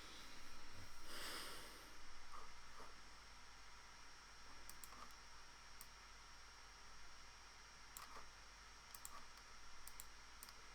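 Faint computer mouse clicks, a scattered handful of single clicks and quick double clicks over a low steady hiss and hum. A short soft rush of noise comes about a second in.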